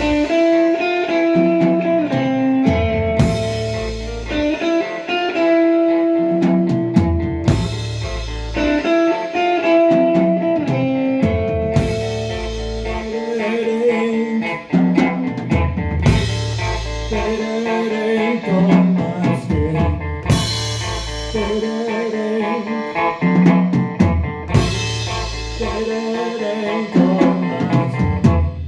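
Live rock band playing an instrumental passage: electric guitars over a drum kit, with a heavy low hit and a cymbal crash about every four seconds.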